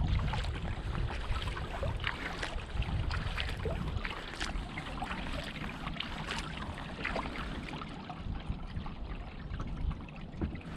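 Kayak paddle dipping into the water, with water splashing and dripping off the blade in many small patters. A low rumble dies away over the first few seconds.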